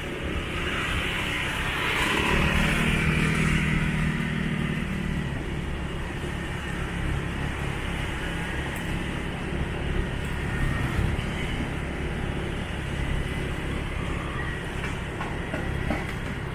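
Motorbike engine running while being ridden along a road, with a continuous low rumble and road noise; a louder, steady engine hum comes in from about two to five seconds in.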